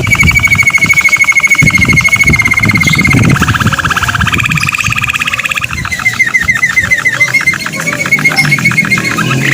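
Domestic canary singing a run of fast rolled trills, switching to a new trill several times. A low rumble lies underneath during the first few seconds.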